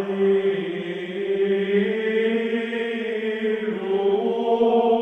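A long chant-like drone held on one steady pitch without a break.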